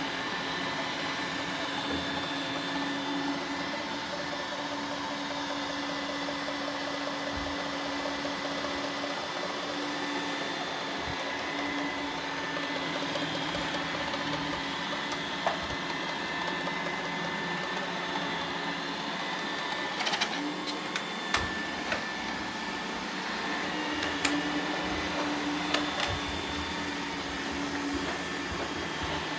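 Roomba robot vacuums running, a steady motor and brush hum with several steady tones. Several sharp clicks and knocks come in quick succession about two-thirds of the way in.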